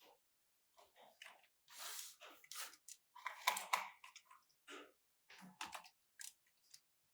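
Irregular clicks, scrapes and rustling of computer parts being handled, with the busiest stretch about halfway through.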